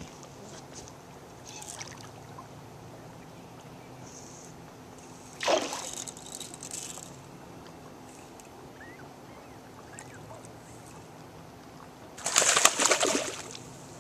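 Water splashing twice as a hooked bass thrashes at the surface during the fight. The second splash, near the end, is longer and louder than the first.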